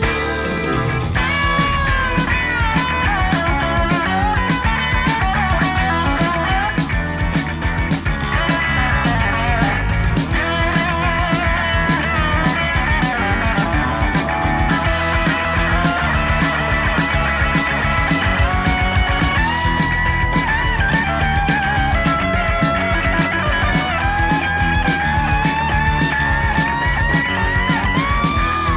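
Instrumental rock music: an electric lead guitar plays sliding, bending melodic lines over bass and drums.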